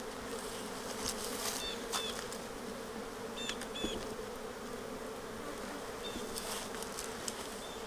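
Honeybee colony buzzing steadily in an opened hive, with a few faint clicks scattered through it.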